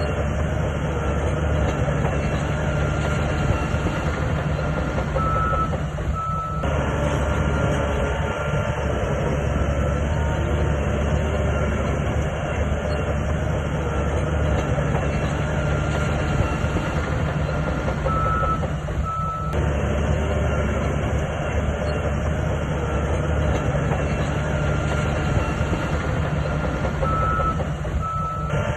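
Heavy earthmoving machinery working: a diesel engine runs with a steady low drone and dense clanking, with a thin high warning tone that sounds on and off.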